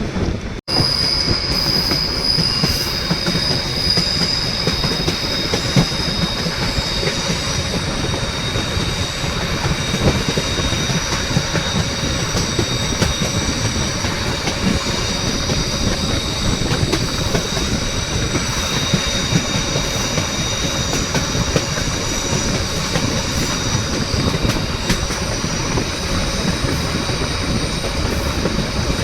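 Narrow-gauge train running: the steady rumble and clatter of wheels on the rails, with a continuous high-pitched squeal of wheels against the rail. There is a very short break in the sound about half a second in.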